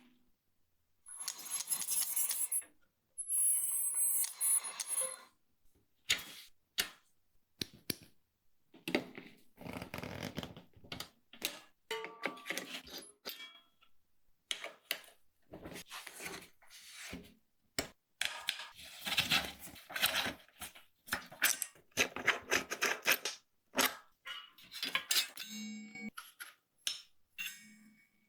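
Small metal parts and hand tools clicking, tapping and rattling in irregular bursts, with a few brief hissing or scraping stretches in the first few seconds.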